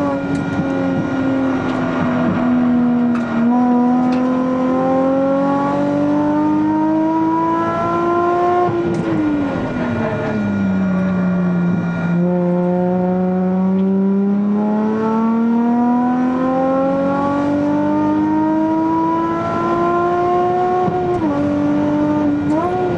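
Nissan Fairlady Z's V6 engine heard from inside the cabin on track, revs climbing under full throttle with an upshift about three seconds in. The revs fall steeply under braking for a corner, climb slowly back out, drop at another upshift, and jump in quick throttle blips near the end as it downshifts. Steady tyre and wind noise runs underneath.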